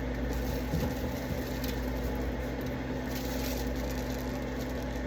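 A steady electrical appliance hum, with a few faint rustles and clicks from food packages being handled about a second in and again around three seconds in.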